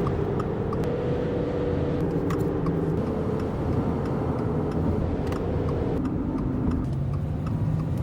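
Subaru Crosstrek running, heard from inside the cabin as a steady engine and road rumble.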